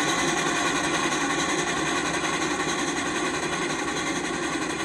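Passenger train cars rolling past, their steel wheels running steadily over the rails.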